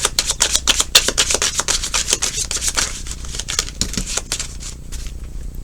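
A tarot deck being shuffled by hand, with cards rubbing and flicking against each other in quick succession. The shuffling thins out after about three seconds.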